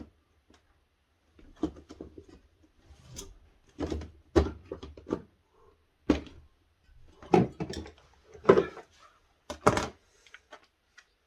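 Irregular knocks, taps and clatter of hands working parts loose inside a bottom-freezer refrigerator, with a handful of sharper knocks among softer rustling handling noise.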